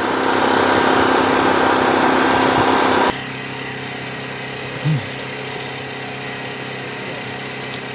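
Portable generator engine running steadily. For about the first three seconds a louder, noisier sound lies over it, then cuts off suddenly, leaving the generator running on its own.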